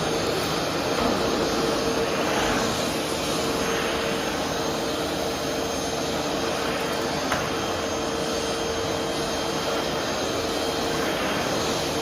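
Vacuum cleaner running steadily, a continuous rushing noise with a constant motor whine, swelling and easing slightly; a small click about seven seconds in.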